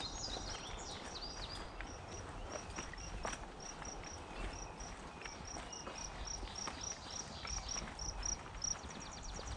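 A bird repeating a short high note about three times a second, quickening into a rapid trill near the end, with a few sliding chirps at the start. Footsteps on the trail tick underneath.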